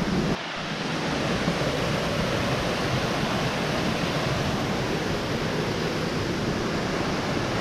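Steady rush of falling water from the glen's creek and waterfalls, an even hiss with no separate events; the level drops slightly about half a second in.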